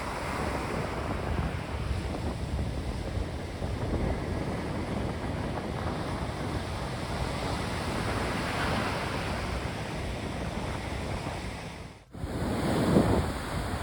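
Sea surf washing on the shore, with wind buffeting the microphone; the sound drops out briefly about twelve seconds in, then resumes.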